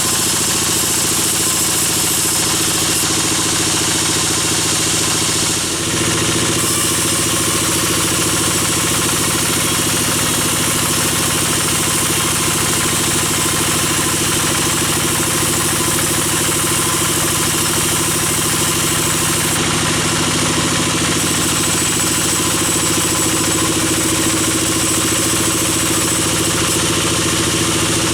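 Sawmill bandsaw machinery running steadily: a constant mechanical drone with hiss, dipping briefly about six seconds in.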